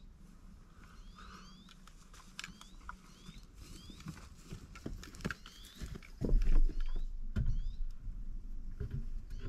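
Small birds calling in repeated short, rising chirps. Scattered clicks and rustling run under the calls, and a loud low thump and rumble comes about six seconds in.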